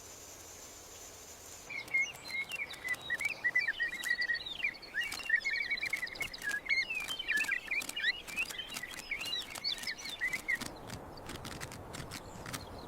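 A faint steady insect trill, then about two seconds in, a long run of rapid chattering bird calls from a pair of rufous horneros duetting, lasting about nine seconds. Scattered clicks continue throughout and after the calls stop.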